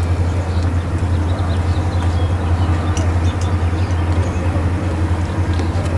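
Steady low rumble of a Norfolk Southern freight train's diesel locomotives working across a stone arch bridge.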